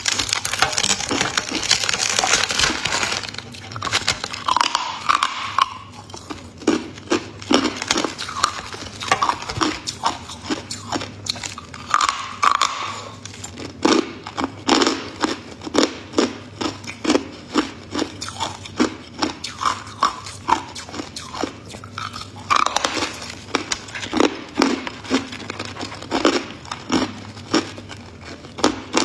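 Ice being bitten and chewed close to the microphone. A dense spell of crackling crunches comes at the start and another about 23 seconds in, with steady chewing crunches about twice a second in between.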